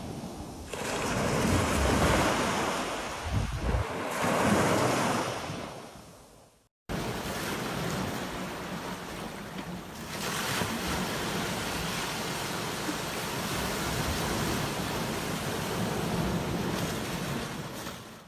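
Ocean surf washing onto a beach, with wind on the microphone. One wave swells and fades over the first few seconds, then after a brief break a steadier wash of surf runs on and fades out near the end.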